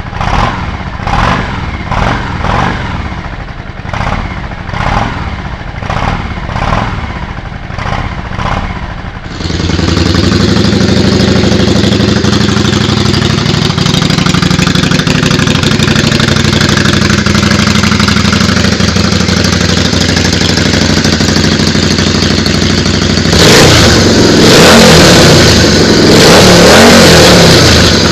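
Yamaha Virago V-twin engine through its exhaust, blipped repeatedly about once a second. After a cut it settles to a steady idle, then is revved up loudly near the end.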